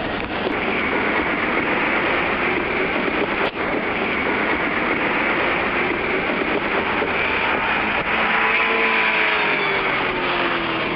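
Kintetsu Nara Line electric train running past at close range, a loud steady rush of wheel and running noise, with a falling whine in the last few seconds.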